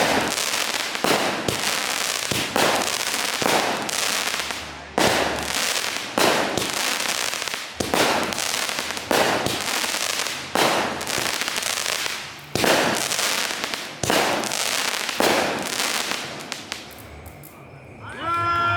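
Fireworks going off in a rapid barrage: a long run of sharp bangs about a second apart, each fading out in a rush of noise, until the firing stops near the end.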